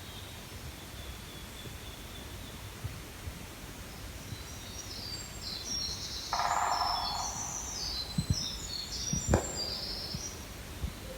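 Woodpecker drumming, a single rapid roll lasting about a second, heard about six seconds in over songbirds chirping high and busily in the trees. A few dull knocks follow near the end.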